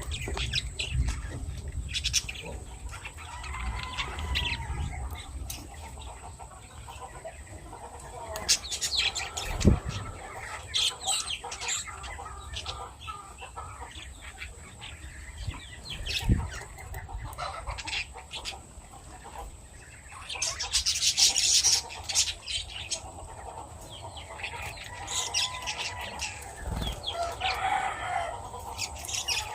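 Lovebirds chirping and squawking, with a loud burst of wing flapping about two-thirds of the way through.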